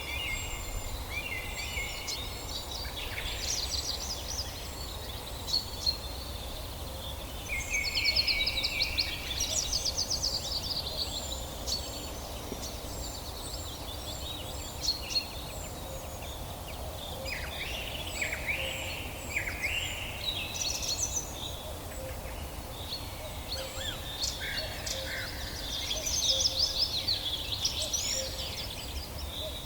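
Several songbirds singing and calling at once in a forest chorus: overlapping trills, rapid runs of short high notes and single chirps, with the busiest stretches about a quarter of the way in and near the end. A steady low rumble lies underneath.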